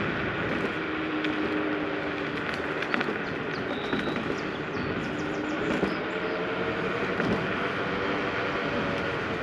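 Ausom L2 Max dual-motor electric scooter riding on a paved path: a steady motor whine of a few tones over a rushing noise of tyres and air, with a few light knocks.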